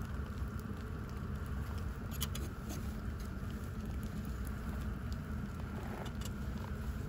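Steady low rumble of a Jetboil gas stove burner running under the cooking rice, with a few light clicks scattered through it.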